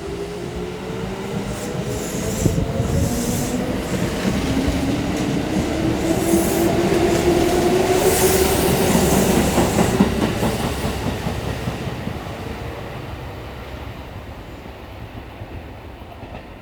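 Electric commuter train pulling out of the station: the traction motor whine climbs steadily in pitch as it accelerates, over wheel and rail-joint clatter. It is loudest about eight to ten seconds in, then fades as the train moves away.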